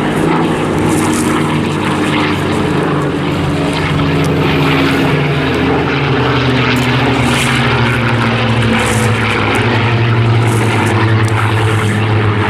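Piston-engined World War II fighters, a Spitfire and a Mustang, flying a display pass: a loud, steady propeller-aircraft engine drone that swells slightly toward the end.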